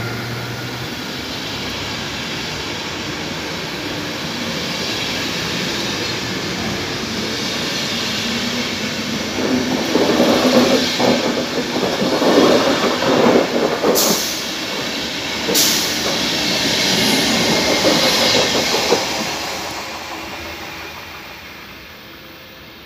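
Locomotive-hauled Intercity train's coaches rolling past on the track. The wheel noise grows louder and uneven about halfway through, with two sharp clicks, then fades as the end of the train draws away.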